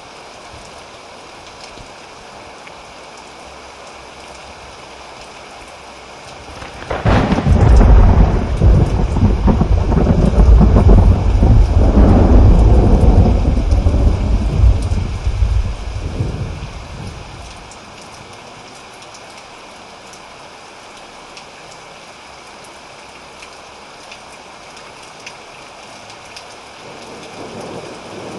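Steady rain falling, with a thunderclap about seven seconds in that breaks suddenly and rolls as deep rumbling for about ten seconds before fading back into the rain.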